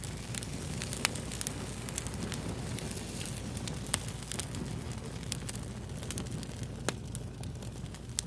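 Fire crackling: irregular sharp pops and snaps, a few loud ones standing out, over a steady low rumble.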